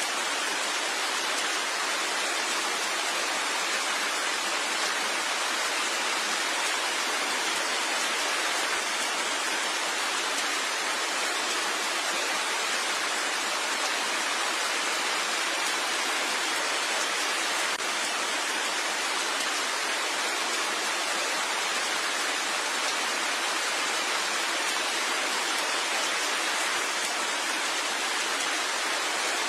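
Steady, even rain with no distinct drops standing out.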